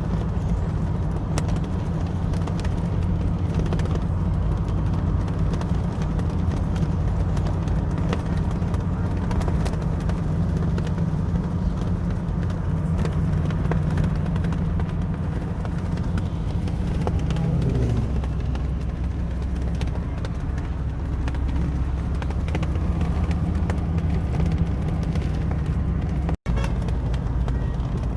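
A car's engine and road noise, a steady low hum whose pitch drops about two thirds of the way through as the engine slows. The sound cuts out for an instant near the end.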